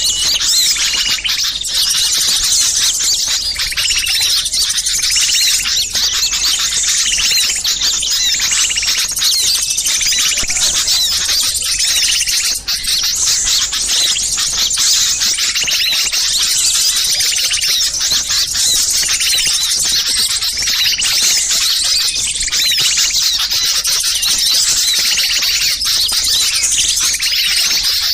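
Dense, noisy chatter of many small songbirds calling at once, rapid high chirps and trills overlapping without pause: a mixed small-bird lure recording meant to draw wild birds in.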